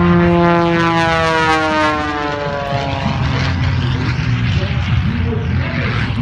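Aerobatic single-engine propeller plane flying past, its engine and propeller drone falling steadily in pitch over the first three seconds as it goes by. It then carries on as a rougher, wavering engine sound.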